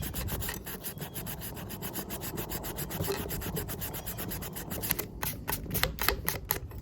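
Fast back-and-forth scrubbing on a metal part of a disassembled Felco No. 2 pruning shear, in rapid even strokes that turn sharper and louder near the end.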